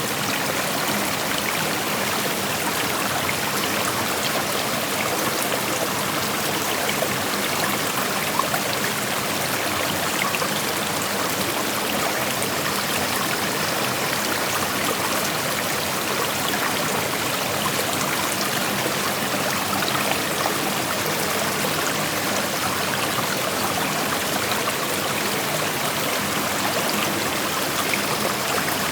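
Creek water flowing over rocks: a steady, even rush with fine trickling and splashing, unchanging throughout.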